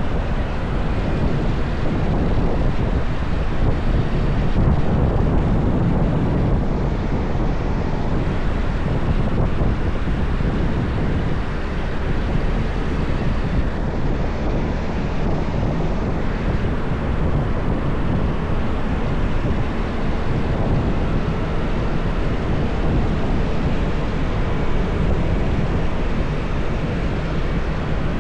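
Steady wind noise on the microphone over the running engine and tyre noise of a motorbike being ridden.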